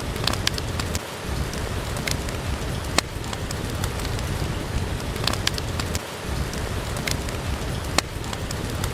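Steady rain with the sharp crackles and pops of a wood fire scattered through it.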